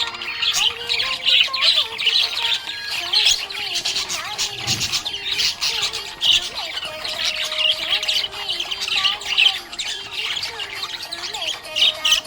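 Budgerigar chattering: a continuous run of rapid chirps, warbles and squawks.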